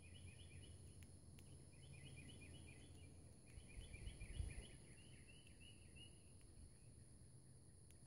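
Faint bird chirps in quick runs of repeated high notes, in three bursts, over a steady high hiss. A brief low rumble about four seconds in is the loudest sound.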